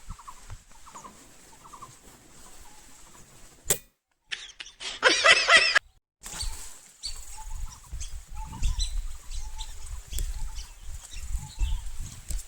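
Bird calls, repeated and faint at first. About four seconds in comes a loud, rapid wavering call lasting about a second and a half, cut off abruptly. Then scattered calls over a low rumble of wind or handling noise.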